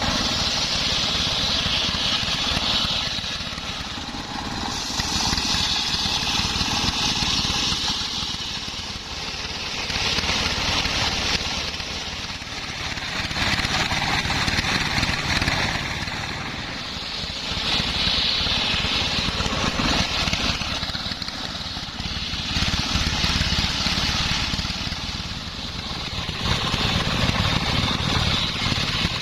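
Homemade circular sawmill running on a steady engine rumble, with a higher cutting sound that swells for two to three seconds about every four seconds as the blade works through kenanga (cananga) wood.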